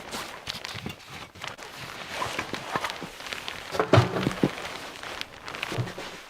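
Crunching footsteps and handling noise in snow, irregular and close, with a heavier thump about four seconds in and a smaller one near the end.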